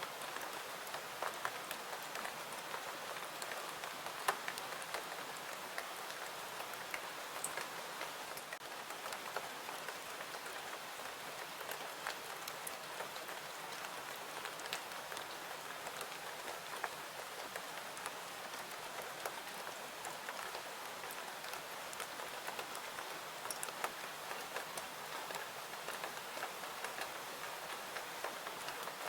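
Steady rain falling, an even hiss dotted with scattered sharp drop clicks.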